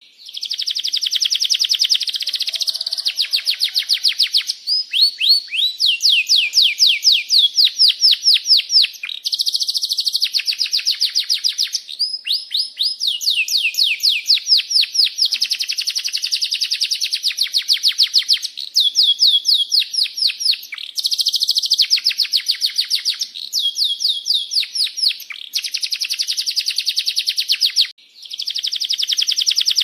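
Domestic canary singing a long, continuous song of rapid trills and rolls, with repeated high chirping 'cuit cuit' phrases; it breaks off briefly near the end and resumes.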